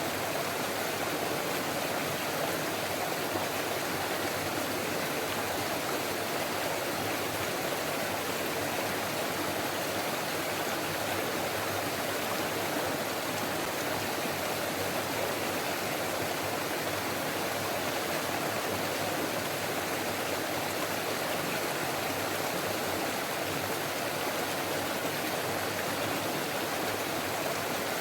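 Forest stream babbling and splashing over rocks, a steady rush of running water that does not change.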